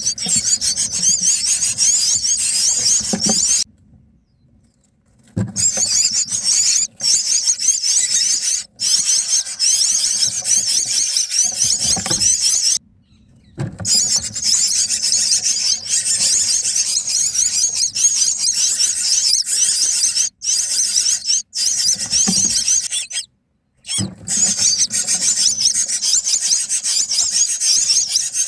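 Myna nestlings begging in the nest: a dense, shrill chatter of rapid high calls, broken off abruptly a few times.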